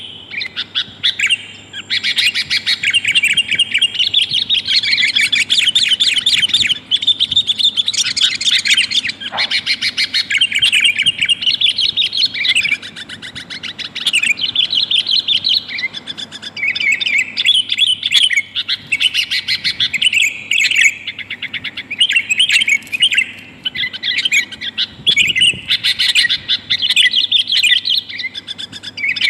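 Sooty-headed bulbul (kutilang), billed as a female calling males, giving fast, busy chattering calls in long runs broken by short pauses.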